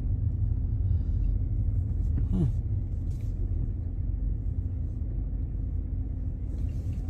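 Steady low rumble of a car heard from inside the cabin, the engine running with an even hum.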